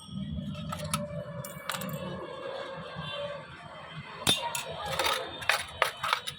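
Metal parts and tools clinking and tapping while a marble cutting machine is being repaired, with a quick run of sharp clicks about four to six seconds in.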